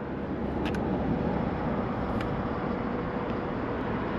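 Steady road-traffic noise, with a couple of faint clicks.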